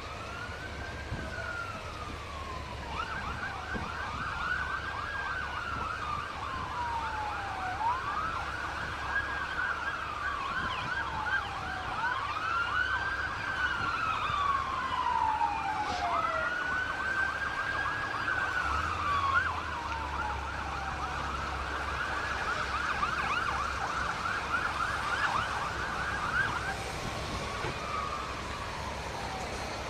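Emergency vehicle siren switching between a slow wail, which rises quickly and falls away over a few seconds, and stretches of rapid yelp. A steady low rumble runs underneath.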